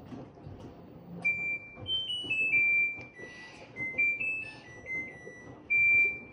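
LG washing machine's electronic end-of-cycle melody, signalling the wash is finished: a tune of pure, high beeping notes that begins about a second in and steps up and down in pitch. A faint low noise lies underneath.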